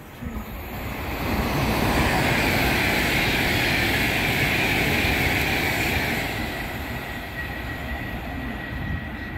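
Train passing through a station at speed: a rush of wheels and air that builds over the first second or two, stays loud for several seconds, then eases off, leaving a thin steady high whine.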